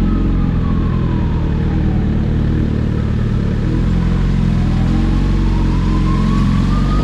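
Superbike running at speed, its engine a steady drone under rushing noise. A whine above it falls in pitch over the first couple of seconds, then climbs slowly again toward the end.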